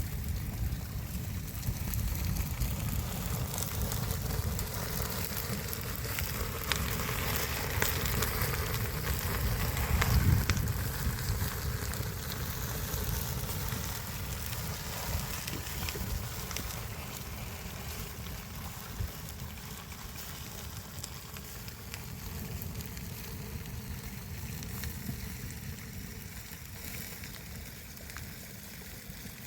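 Steady rush of flowing river water, with low wind rumble on the microphone; it swells briefly about ten seconds in and eases off slowly toward the end.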